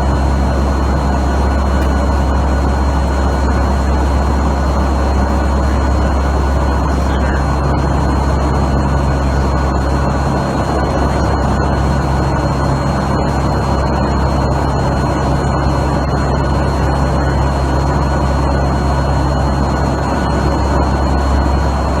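Steady, loud drone of a four-engine turboprop hurricane-hunter aircraft's engines and propellers heard from inside the aircraft, with a low hum and even rushing noise.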